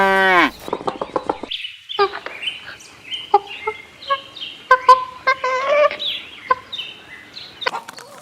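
A cow's long moo dies away with a falling pitch in the first half second, then a group of domestic fowl calls with many short, quick clucks and chirps.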